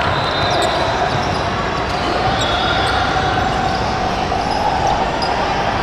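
Basketball bouncing on an indoor court, with a steady background of many people's voices.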